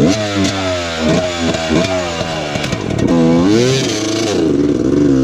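Off-road motorcycle engine revving up and down over and over, its pitch swinging rather than holding steady.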